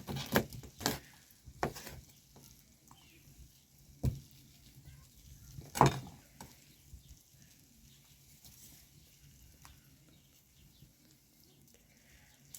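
A few sharp knocks and clatters, five in the first six seconds with the loudest about six seconds in, over a faint steady hiss.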